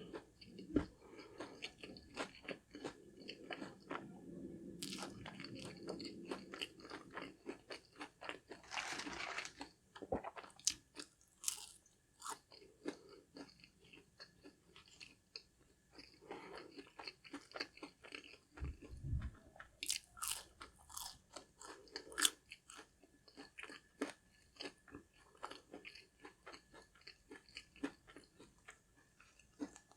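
Close-miked chewing and crunching of crispy fried food, with many small crackles from each bite and chew.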